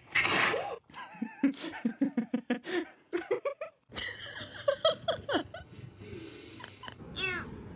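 A person laughing in a rapid run of short bursts, with more laughter later.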